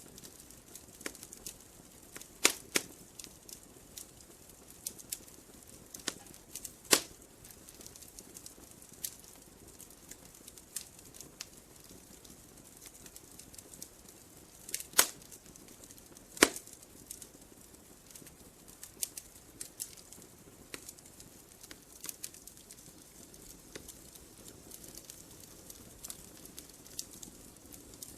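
Wood fire burning in a fireplace, crackling: irregular sharp pops and snaps over a faint hiss, with a few much louder pops, two of them close together about halfway through.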